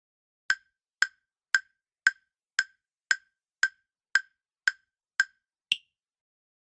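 Countdown timer sound effect: ten identical sharp ticks, about two a second, then an eleventh higher-pitched tick that ends the count.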